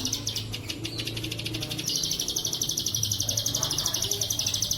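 Plain prinia (ciblek sawah) singing a fast, high-pitched trill of evenly repeated notes: a short run at the start, then a longer one from about two seconds in. A faint low hum lies underneath.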